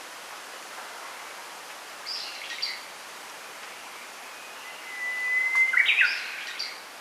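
A songbird, likely a Japanese bush warbler (uguisu), sings one phrase: a long held whistle, then a quick flourish of notes. Another brief, higher call comes about two seconds in. All of it sits over a steady rustling hiss of wind in the bamboo.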